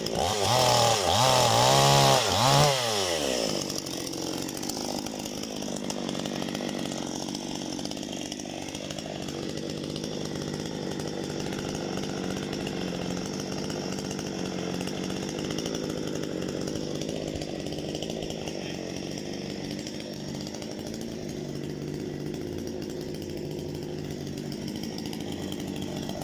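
Parma BP-058 two-stroke petrol chainsaw revved hard, its pitch rising and falling, for about three seconds, then dropping back to a steady idle.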